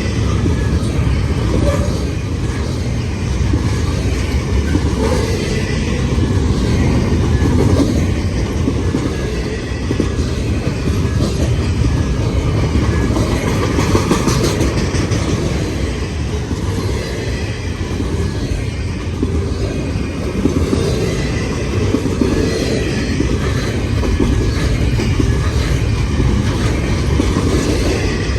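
Freight train cars rolling steadily past, the wheels running on the rails in a continuous, even noise.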